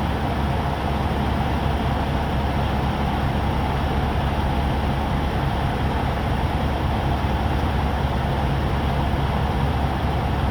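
Steady low drone of an idling diesel truck engine, even and unbroken.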